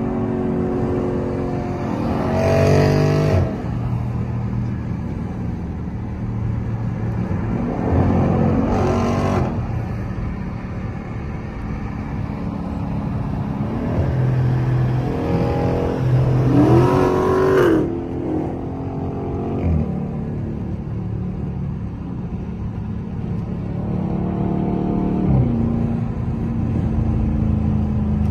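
A 392 HEMI V8 car under hard acceleration in several short pulls, its engine note rising and getting louder about two, eight, fifteen and twenty-four seconds in, with steady cruising in between.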